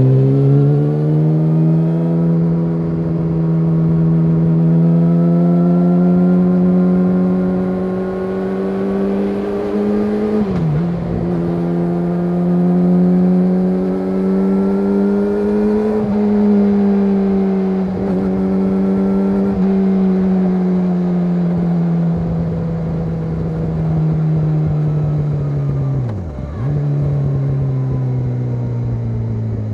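Yamaha YZF-R6's inline-four engine through an SC Project SC1-R exhaust, running steadily at mid revs with its pitch slowly rising and falling. The pitch drops briefly about ten seconds in and again near the end.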